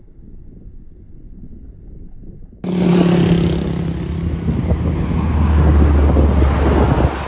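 Low wind rumble on the microphone, then, about two and a half seconds in, a sudden cut to loud jet airliner engine noise as a landing plane passes close, with a low hum that sinks slightly in pitch; it stops abruptly at the end.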